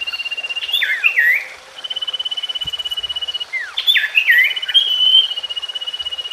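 Common iora (cipoh) song: sharp falling whistles and chattering phrases in two bursts, about a second in and again around four to five seconds, between stretches of a fast, even trill held at one high pitch.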